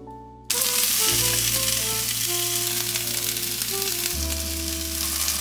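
Korean zucchini slices and mushrooms sizzling as they pan-fry, a steady hiss that starts suddenly about half a second in, over soft background music.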